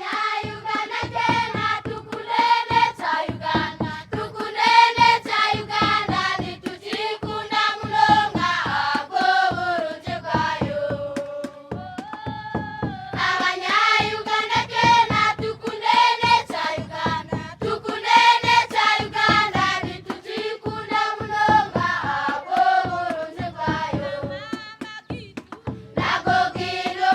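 A group singing together to a steady rhythm of sharp strokes, likely hand claps, with long held notes between the phrases.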